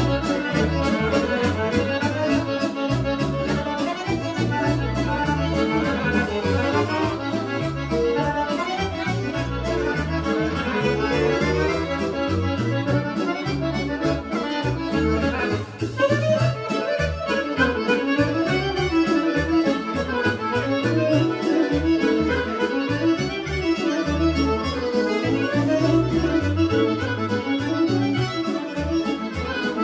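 Serbian folk kolo dance music played by a band, with accordion to the fore over a steady, driving bass beat and a brief break about halfway through.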